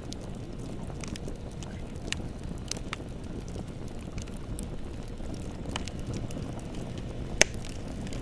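Wood bonfire burning with a steady low rumble and scattered crackles, with one loud sharp pop about seven seconds in.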